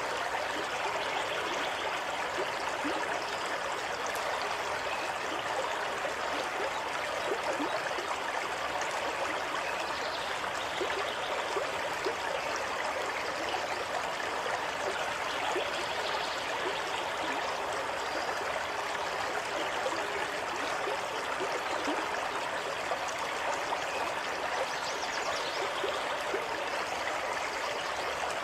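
Water running steadily in a stream, with a continuous rushing and fine trickling flecks and no change in level.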